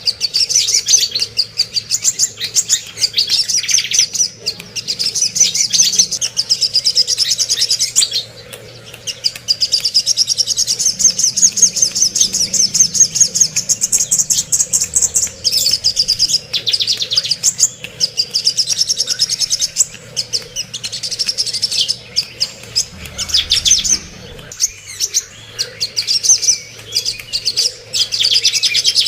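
A songbird singing a fast, unbroken stream of high chattering trills, the kind of song played to caged birds as a training (masteran) recording. The song pauses briefly twice, about a third of the way in and again near the end.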